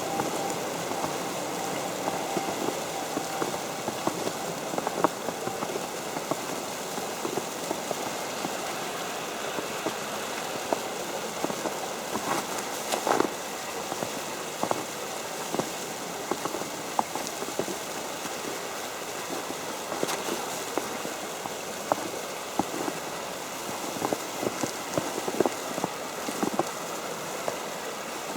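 Falling snow pattering on an umbrella overhead: scattered, irregular light ticks over a steady hiss.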